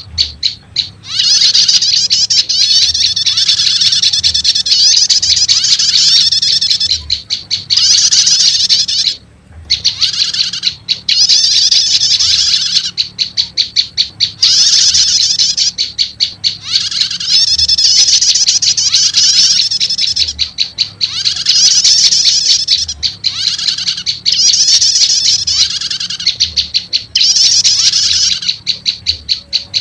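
Bird-lure recording of prenjak lumut calls combined with a prenjak 'starter' call. Phrases of fast, high, rattling chirps, each about one to two seconds long, repeat with short breaks. A longer break comes about nine seconds in.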